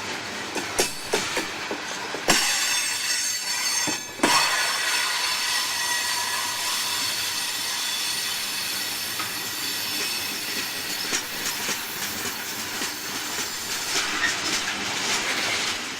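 Coal train cars rolling past, the wheels squealing in several high, steady tones. There are clacks over rail joints in the first two seconds and two louder bangs about two and four seconds in.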